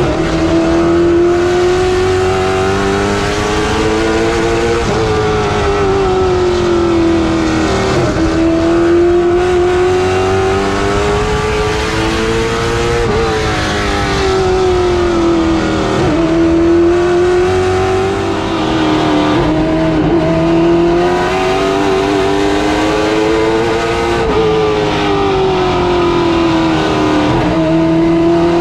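Late-model stock car engines at racing speed on a short oval track. The engine pitch climbs steadily for several seconds, then dips sharply and climbs again about every three to five seconds, the lift into each turn and the pull back onto the straightaway.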